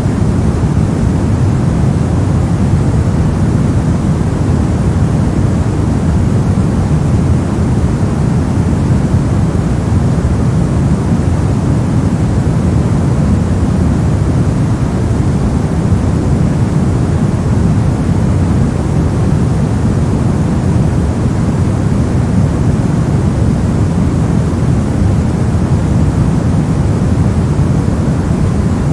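Steady, unbroken sleep-noise track, sold as white noise. It is a deep, even rush, fullest in the low range and thinning toward the top, with no changes or events.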